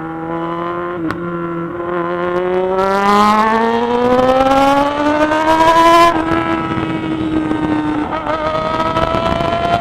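Yamaha XJ6 motorcycle's inline-four engine pulling hard, its pitch rising steadily for about four seconds, then dropping sharply on an upshift about six seconds in and running on at a steadier pitch.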